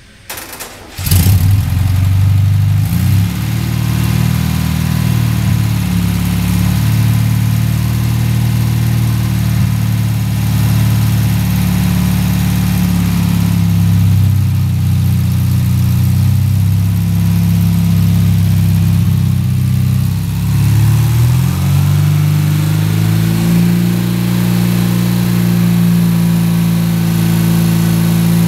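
Freshly rebuilt air-cooled Volkswagen 40-horsepower flat-four engine started on its starter, catching about a second in and then running steadily. A little past two-thirds of the way through, the engine speed is raised and holds at a faster run.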